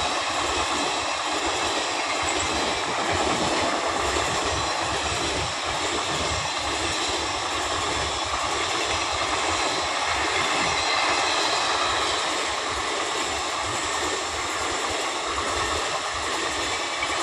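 Indian Railways passenger coaches rolling past on the track, the wheels on the rails making a steady, unbroken running noise.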